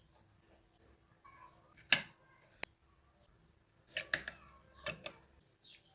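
A few scattered small clicks and knocks of objects being handled, one of them sharper, about halfway through, over a faint steady hum.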